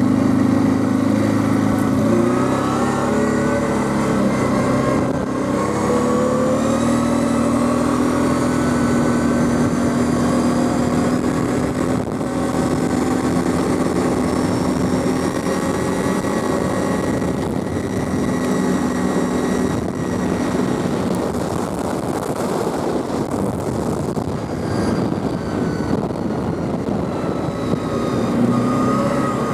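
Quad bike (ATV) engine running while riding, its pitch climbing as it speeds up about two seconds in and again around six seconds, then holding fairly steady.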